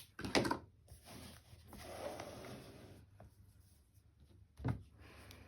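Craft materials being handled on a tabletop: soft rustling with a sharp knock just after the start and another about four and a half seconds in.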